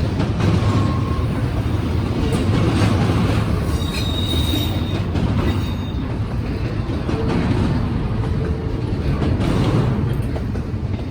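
Norfolk Southern freight train rolling past close by: a steady, loud rumble of cars on the rails, with brief high wheel squeals about four to six seconds in.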